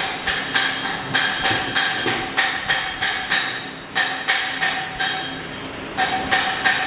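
A hammer striking steel again and again, about three blows a second, each blow leaving a short metallic ring. The blows break off twice for a moment.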